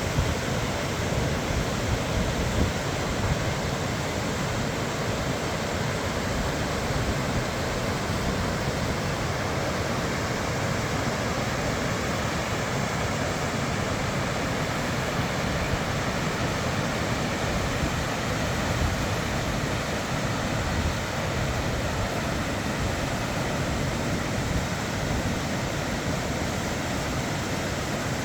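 Tröllafoss waterfall: the steady rush of falling water, even and unbroken.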